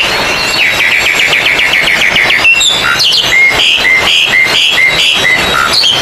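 Oriental magpie-robins (kacer) singing loudly. A fast run of clipped notes, about eight a second, comes first, then repeated short whistled notes and chattering phrases.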